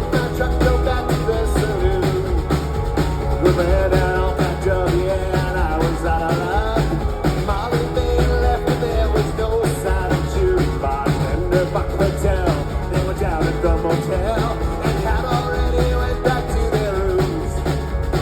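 Live rock band playing a stretch without lyrics: a drum kit and a heavy bass line under a melodic lead line that bends up and down in pitch.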